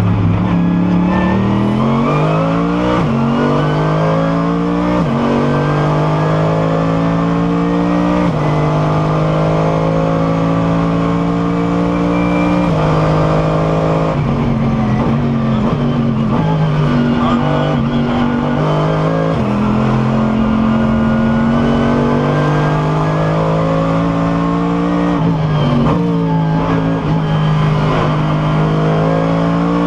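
Mercedes SLS AMG GT3 race car's 6.2-litre V8 heard from onboard under hard acceleration on track. The revs climb and then drop sharply at each upshift, several times over, with stretches held at a steady pitch.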